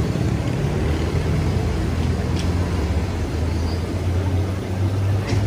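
A steady low engine drone under an even hiss, with a couple of faint short clicks.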